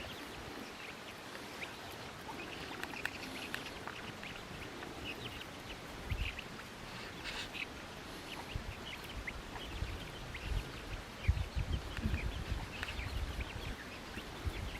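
Birds giving many short, scattered chirps and calls over faint outdoor background noise, with a few low thuds in between.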